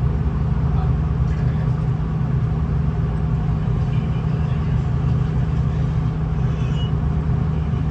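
Steady low drone of a V/Line VLocity diesel railcar's engines and running gear, with a strong, even hum that doesn't change.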